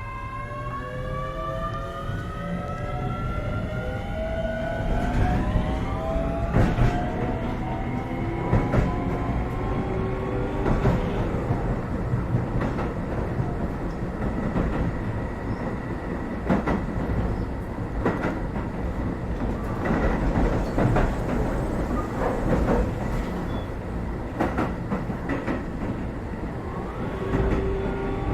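Keio 7000 series electric train heard from inside a passenger car as it accelerates: several motor tones climb in pitch over the first six seconds or so. It then runs on at speed with a steady rumble and wheels clicking over rail joints.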